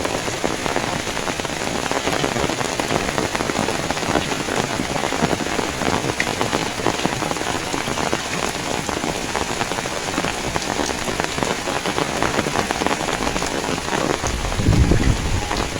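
Heavy rain pouring steadily, a dense patter of drops hitting close by. A brief low rumble swells about a second before the end.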